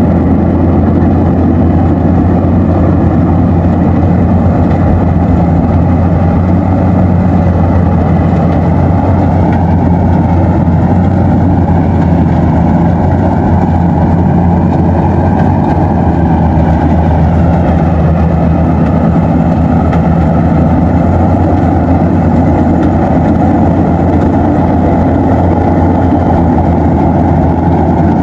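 Combine harvester's engine running steadily while harvesting rice, a loud, even drone with a slight sway in pitch partway through.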